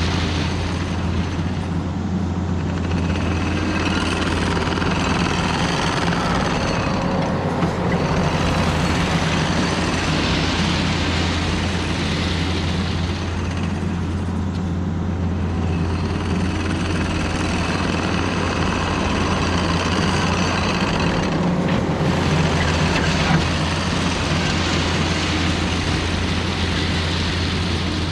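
Diesel engine of a Takeuchi compact machine running steadily under load, its sound swelling and easing several times as it works.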